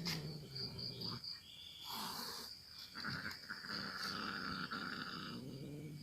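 A cat growling low and drawn out, in several long stretches, with crickets chirping steadily behind.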